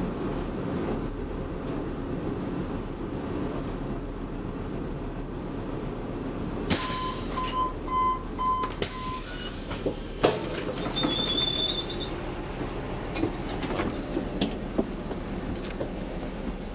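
Interior of a DSB IC3 diesel train in motion, with a steady low rumble of the carriage running on the track. About seven seconds in there is a two-second burst of hiss with a series of short beeps, and a few clicks and knocks follow.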